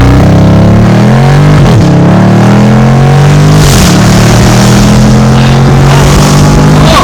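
Dodge Charger Scat Pack's 392 HEMI V8 with its mid mufflers and resonator deleted, accelerating hard through the gears. The loud exhaust climbs in pitch, then drops at an upshift about two seconds in, again about four seconds in, and once more near the end.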